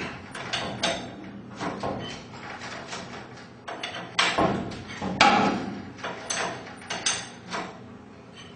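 Steel winding bars knocking and clinking in the winding cone of a garage door torsion spring as the spring is unwound a quarter turn at a time. The knocks come at irregular intervals, with two louder ones about halfway through.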